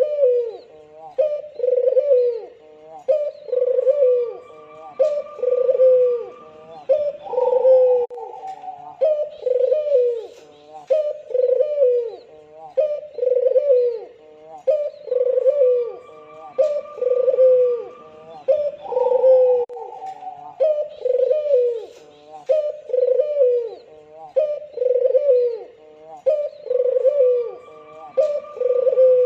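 Albino puter dove, a white ringneck dove, cooing over and over at about one short dipping coo a second. A higher, longer phrase comes in about every twelve seconds.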